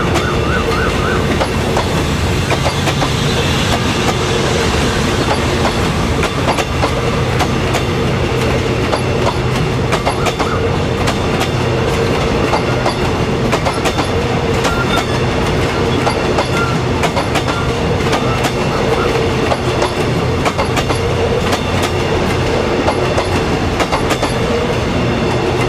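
Passenger coaches of an express train rolling past, wheels clicking and clattering over the rail joints above a steady hum.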